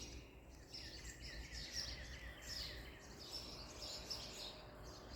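Backyard birds chirping and singing, many short repeated calls over a faint steady low hum.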